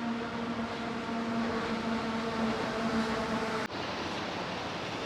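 A vehicle running with a steady humming tone over a rushing noise. The hum cuts off abruptly about three and a half seconds in, leaving only an even rushing noise.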